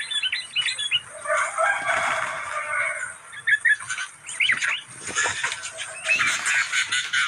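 Sooty-headed bulbuls calling: quick sharp chirps, with about two seconds of harsh, scratchy chattering starting a second in. This is a lure call used to draw in wild bulbuls.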